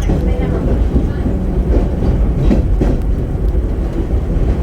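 Vintage R1-R9 subway train running on the track: a steady low rumble of wheels on rail, with a few knocks from the wheels over rail joints around the middle.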